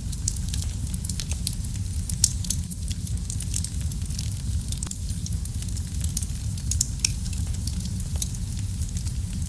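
Fire burning in a fireplace: a steady low rumble of flames with frequent sharp crackles and pops, one louder pop a couple of seconds in.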